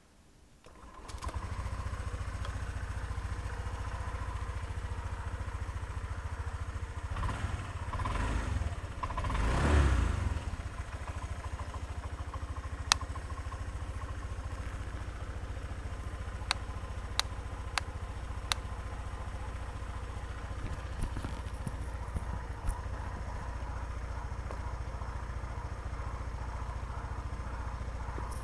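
Honda PCX125 scooter's single-cylinder eSP engine starting about a second in, then idling steadily, with the throttle blipped twice to a brief rev in the middle. A few sharp clicks come during the idle.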